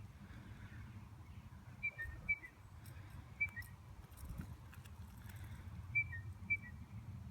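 A bird calling five times with short two-note whistles, each dropping slightly in pitch, over a steady low background rumble.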